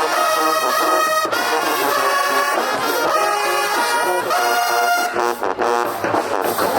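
Brass band music, trombones and trumpets holding long notes, changing to quicker, choppier notes about five seconds in.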